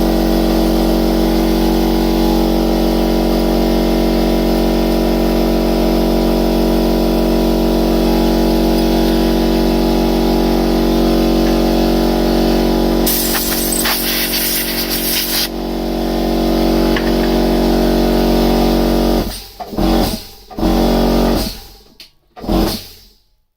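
TOS milling machine's spindle motor and gearbox running steadily with a whine while power-tapping the hole of a snapped exhaust stud. A loud hiss joins in for about two seconds midway. Near the end the machine stops, then is started and stopped briefly a few times.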